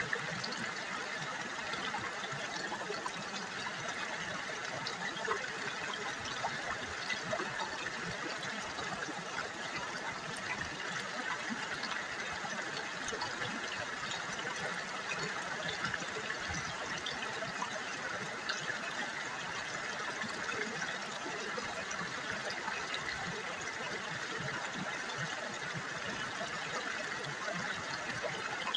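River water trickling and babbling in a steady stream, with a dense patter of small splashes.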